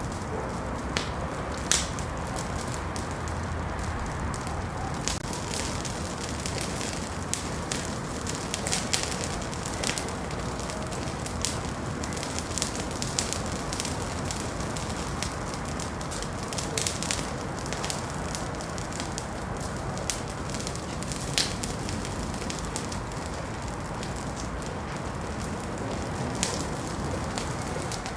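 Wood fire crackling in a fireplace: a steady low hiss and rumble with irregular sharp pops and snaps.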